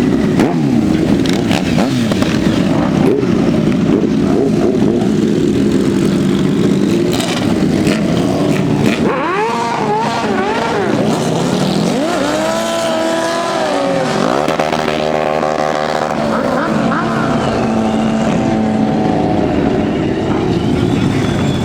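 Car engines running with loud exhaust, revved up and down several times partway through.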